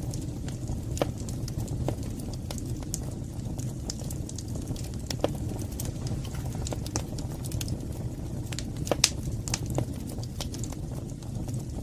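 Wood fire burning in a fireplace: a steady low rumble of flames with scattered sharp crackles and pops, one louder pop about nine seconds in.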